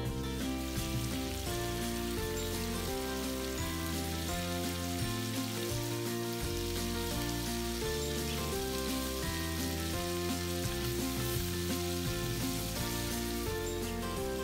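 Background music with a steady, stepping bass line, over chicken drumsticks sizzling as they fry in oil in a steel pan.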